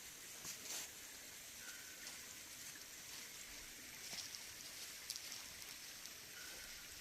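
Faint outdoor nature ambience: a steady soft hiss with scattered light ticks and clicks, and a brief faint high note twice.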